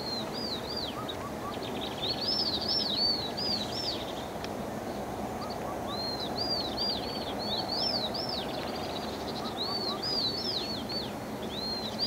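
A songbird singing phrases of quick chirps that rise and fall, with a brief pause a little after a third of the way in, over a steady low background noise.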